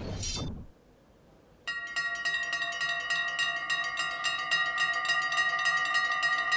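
A Dutch level-crossing warning bell starts suddenly about a second and a half in, ringing rapidly and steadily: the signal that the barriers are about to close for an approaching train. Before it, a short falling swoosh fades into a brief silence.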